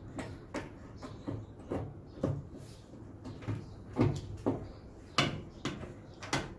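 Parts of a Lenco washing machine being handled and pulled out by hand: a string of irregular knocks and clicks.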